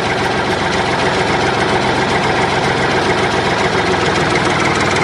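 A motor or engine running steadily with a fast, even pulse, like an engine at idle.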